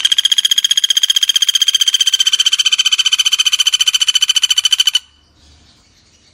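Pelatuk bawang woodpecker calling: one long, fast, even rattle of high notes, about twenty a second at a steady pitch, lasting about five seconds and stopping abruptly.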